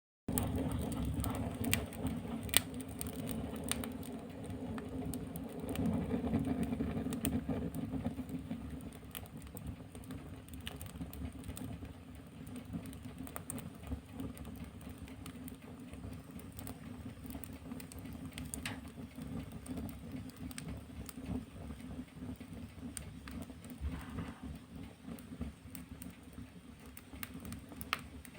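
Wood fire burning in a fireplace: a steady low rumble of flames with frequent scattered crackles and sharp pops, livelier in the first several seconds.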